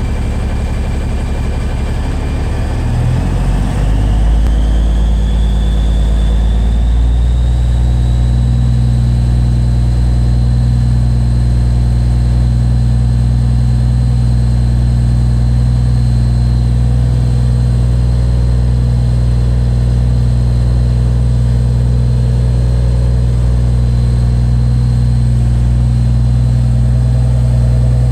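Cummins N14 inline-six diesel in a 1993 Kenworth W900L running through 6-inch straight pipes. Its speed shifts in the first few seconds while a high whine climbs in pitch, then it settles into a steady, loud run.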